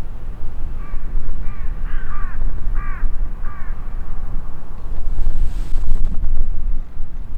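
A bird calling about six times in quick succession, over a steady low rumble of wind on the microphone.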